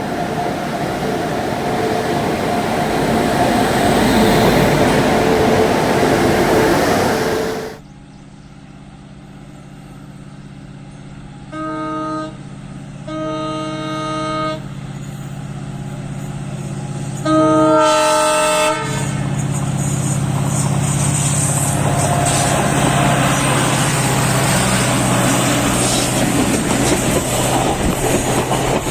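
Passing-train rumble, then a diesel locomotive running with its multi-tone horn sounding three times: a short blast, a longer blast, and a louder blast about ten seconds after the sound changes. The locomotive is a WDP4D. After the horn, the rushing noise of the train builds as it runs past with wheel clatter.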